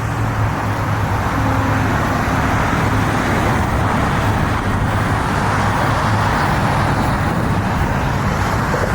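Steady motor-vehicle engine running with a low, even hum, under a constant wash of outdoor noise.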